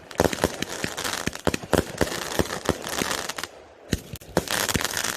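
A firework cake firing: a quick, irregular string of sharp bangs over crackling, with a short lull about three and a half seconds in.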